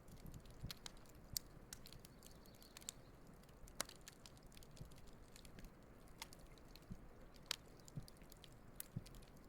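Wood campfire crackling quietly, with irregular sharp pops and snaps, the loudest about four seconds in.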